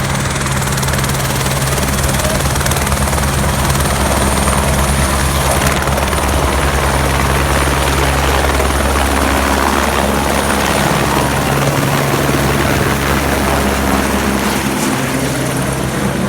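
Helicopter running close by: a loud, steady low rotor drone over a broad rush of engine and blade noise.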